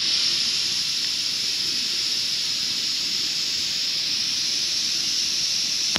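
Afghan pressure cooker's two valves venting steam in a steady, high hiss: both valves have gone off, the sign that the pot has reached cooking pressure.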